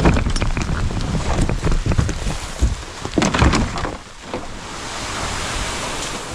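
Wind buffeting the microphone in the rain, with scattered knocks and rustling for the first few seconds, then a steady hiss from about four seconds in.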